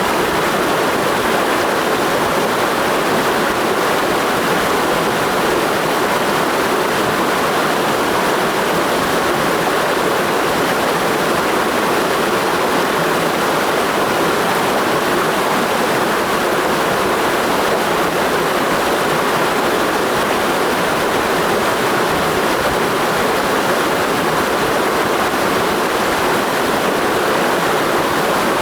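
Mountain stream rushing steadily over rocks, a constant loud wash of water with no breaks.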